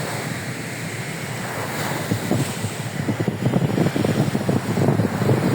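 Rough storm surf washing in a steady hiss, with strong wind buffeting the microphone in rapid low thumps that set in about two seconds in and grow stronger.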